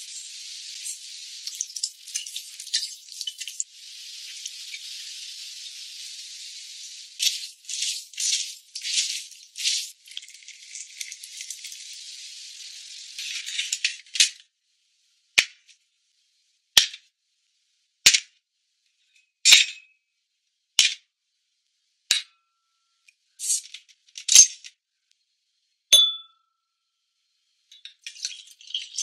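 Food sizzling in a frying pan for about the first half, with louder surges as it is stirred. After that comes a series of separate sharp clicks and clinks about once a second, one with a short ringing note near the end.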